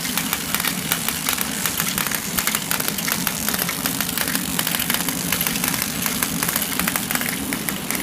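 A machine running steadily: a low hum under a loud, dense crackling hiss.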